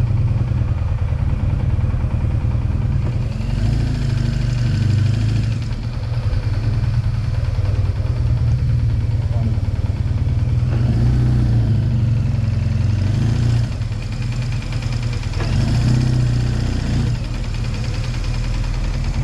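BMW R 1200 GS boxer-twin engine with an SC Project exhaust running steadily at low revs, with small rises and falls in pitch now and then.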